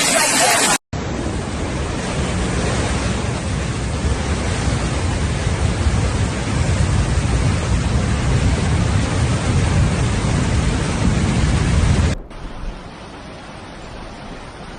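Steady rushing noise of heavy water, such as floodwater or a downpour, loud with a deep rumble underneath. It cuts off abruptly about a second in and again near the end, dropping to a quieter, thinner rush.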